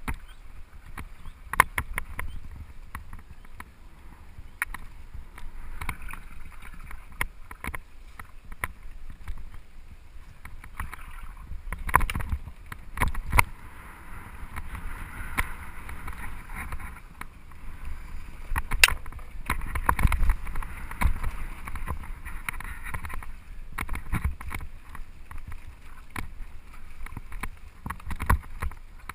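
Downhill mountain bike running down a forest trail: tyres rolling over dirt with a steady rumble and hiss, and many sharp knocks and rattles from the bike over bumps. The rolling noise grows louder from about twelve seconds in to about twenty-three seconds, then eases.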